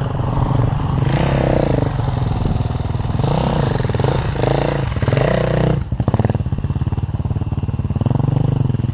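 Enduro dirt bike engine running, its revs rising and falling. About six seconds in it drops to a lower, steady chugging.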